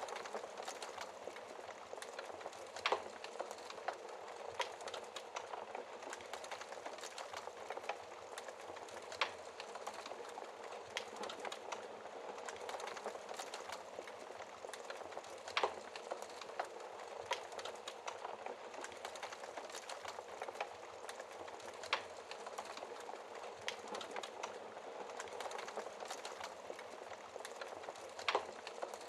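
Wood fire burning in a fireplace: a steady hiss of small crackles, with an occasional louder sharp pop every several seconds.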